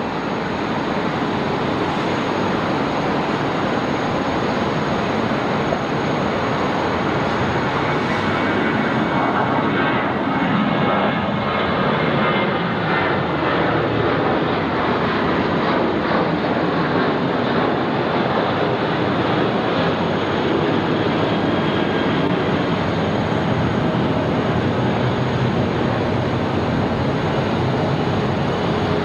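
Boeing 737-800's twin CFM56-7B turbofan engines at takeoff thrust during the takeoff roll and climb-out, a steady, continuous jet noise.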